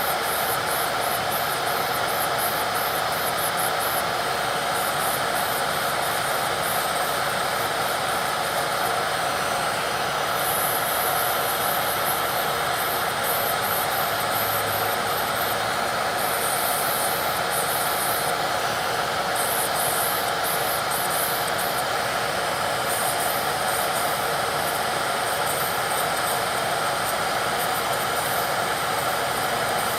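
Electric nail drill (e-file) running at a steady high speed, its bit grinding against the nail surface in passes that come and go, as old gel is filed off.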